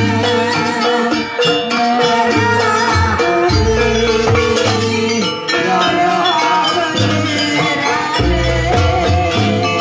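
Loud live Javanese gamelan-style dance music: struck metal keys playing melody over rattling percussion, with deep low booms swelling every couple of seconds.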